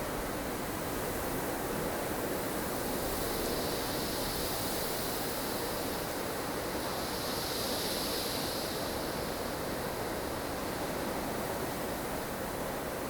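Blustery snowstorm ambience: strong wind blowing steadily, with the hiss swelling twice, about four and eight seconds in.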